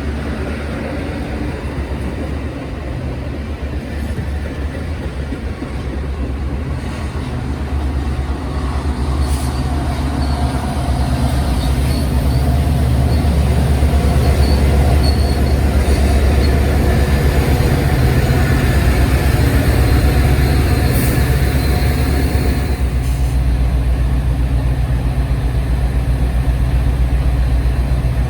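Diesel-hauled train running on the tracks: a steady low engine drone with rail-car noise, growing louder around the middle and holding there.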